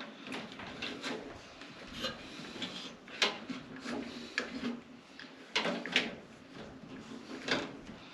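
Scattered clicks and knocks of hands and tools working on the wiring and controls inside a furnace cabinet, the sharpest a little past halfway and near the end, over a faint steady low hum.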